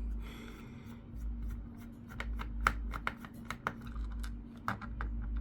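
Hands handling an HP Pavilion G6 laptop's plastic case: irregular light clicks and taps, with dull low bumps now and then.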